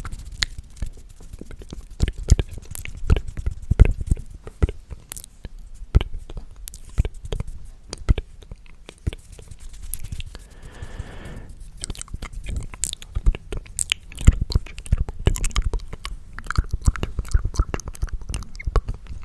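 ASMR trigger sounds made very close to a microphone: quick, irregular clicks and crackles, with a short breathy rush about ten seconds in.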